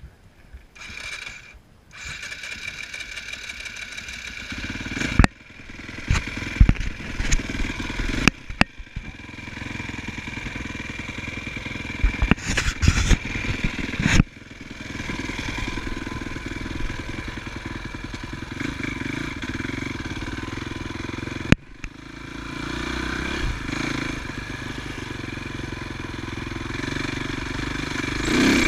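Motocross motorcycle engine running steadily, broken by several sharp knocks and crackles.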